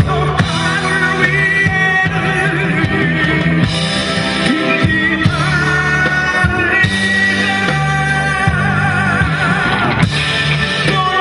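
A band playing a rock-style song with a singer over bass and guitar; the sung notes waver with vibrato.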